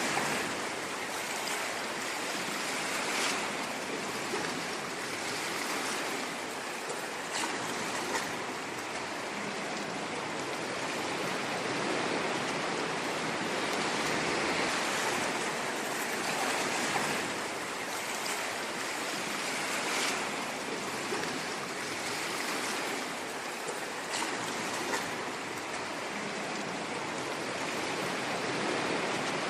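Ocean surf: a continuous rushing wash of waves that swells and eases gently, with a few brief crackling splashes.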